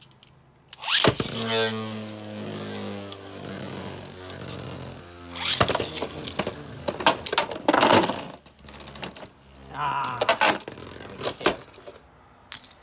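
Two Beyblade Burst tops are ripped from their ripcord launchers into a plastic stadium about a second in. They spin with a whir that falls in pitch, then clash repeatedly with sharp plastic hits before the battle ends.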